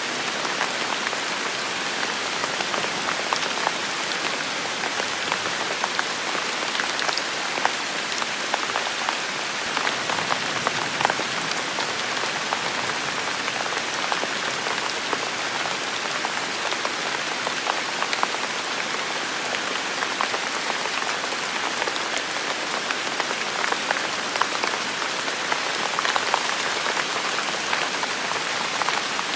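Heavy rain falling steadily in a forest, a dense hiss with many close drop impacts ticking through it.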